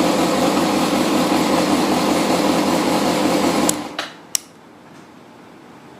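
Yamaha XJR400R's air-cooled inline-four idling steadily through a Yoshimura titanium-carbon aftermarket exhaust, then cutting off suddenly a little over halfway through as it is switched off. A couple of sharp clicks follow.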